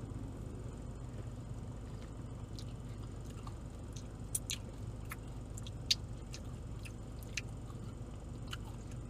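Eating a soft ice-cream Blizzard with a spoon: a handful of small, sharp clicks and mouth smacks scattered over a steady low hum.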